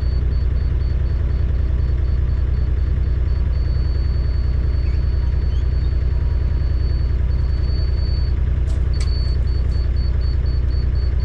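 Engine of a compact construction machine running steadily at idle. A fast, high-pitched electronic beeping runs over it, holds as a steady tone for a few seconds in the middle, then goes back to beeping. A few sharp clicks come in the last third.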